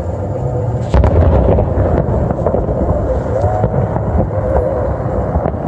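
Fireworks going off, with a sharp bang about a second in, over a steady low rumble of wind on the microphone.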